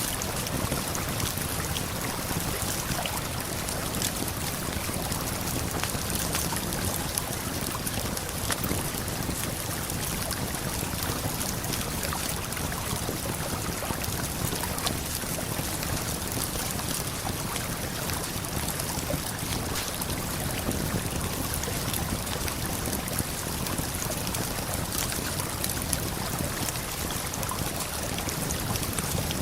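Steady, unbroken rush of a waterfall and flowing river, with faint scattered crackles of a campfire.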